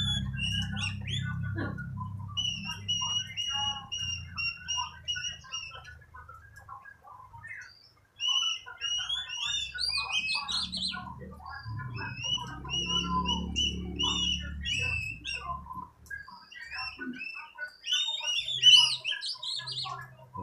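Oriental magpie-robin (kacer) singing in full, continuous song: rapid, varied whistled phrases, with a run of evenly repeated notes a couple of seconds in. A caged bird singing this freely is said to be gacor, in good singing form.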